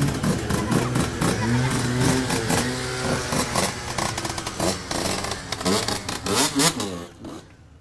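Several motorcycle engines running and revving close by, their pitches rising and falling against each other, with scattered clattering; the engine sound dies away about seven seconds in.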